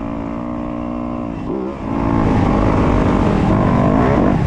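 Yamaha YZ250F single-cylinder four-stroke motocross engine held at steady revs, then a brief dip about a second and a half in, followed by a louder surge of revving as the bike accelerates hard.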